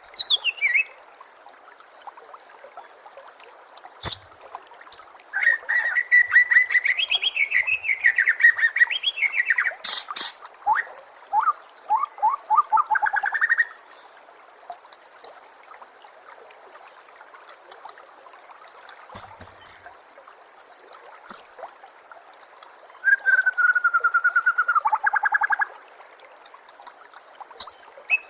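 White-rumped shama (murai batu) singing in several separate phrases of fast trills and whistled notes, with pauses between them, over a steady hiss of trickling water.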